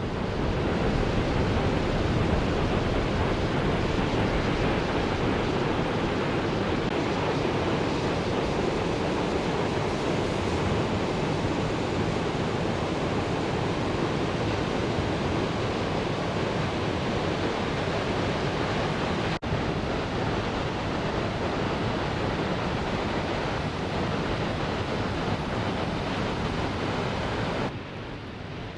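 Steady rush of wind noise on the microphone of a moving motorcycle, with a brief dropout about two-thirds through and a drop in level near the end.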